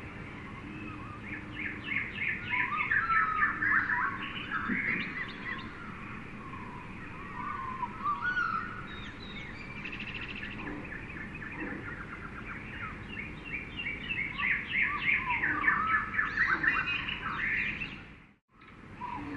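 Jungle ambience of many birds singing and calling at once, dense trills and warbles over a steady background hiss, busiest in two spells; near the end the sound drops out for a split second and comes back, like a loop seam.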